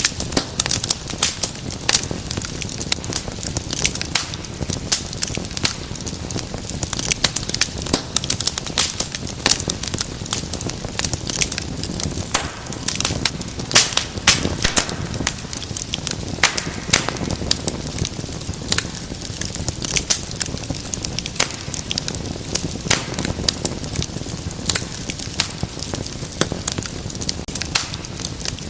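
Wood fire in a fireplace crackling steadily, with frequent irregular sharp snaps and pops over a low rush of flames.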